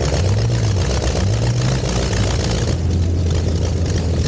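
Curtiss OX-5 V8 aero engine in the Luxior racing car idling, its low note lifting briefly twice in pitch before settling steady.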